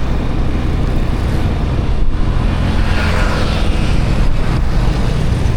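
Road traffic heard from a moving motorbike: a steady low rumble of engine and wind, with a louder rush about three seconds in.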